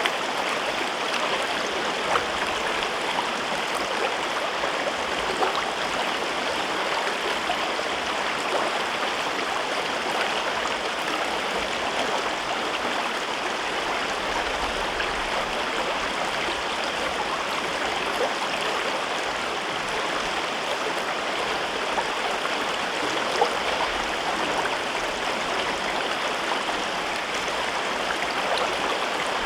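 Mountain river running through a rocky gorge: a steady rushing babble of water, with now and then a small splash or gurgle standing out.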